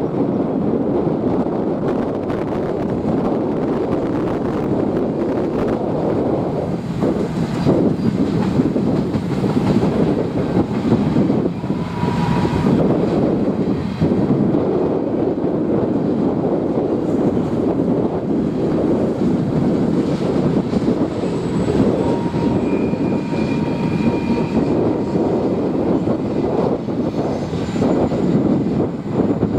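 Train rolling past close by: a loud, steady rumbling roar of wheels on rail that holds throughout, with faint brief squeals now and then.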